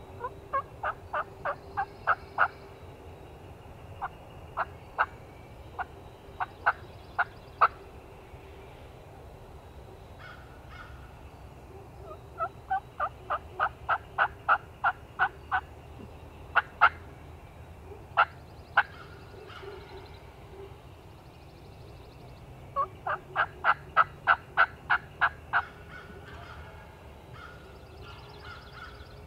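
Wild turkey yelping: several runs of short, sharp, evenly spaced notes at about four a second, with single scattered notes between the runs.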